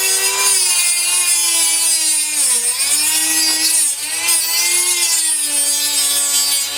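Small rotary tool (mini drill) with a cutting disc grinding through N gauge flex-track rails, a steady high whine whose pitch wavers and sags twice as the disc is pressed into the cut.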